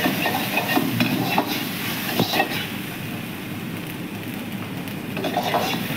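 Chopped ginger and garlic sizzling in hot oil in a wok, with a steel ladle scraping and clinking against the pan a few times in the first half as it is stirred.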